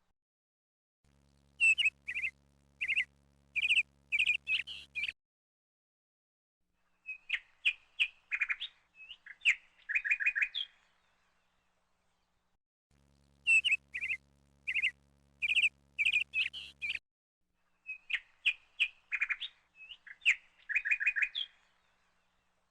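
Small bird chirping and calling in quick runs of short notes, in bursts broken by a few seconds of dead silence. The whole passage plays twice, identically, as if looped.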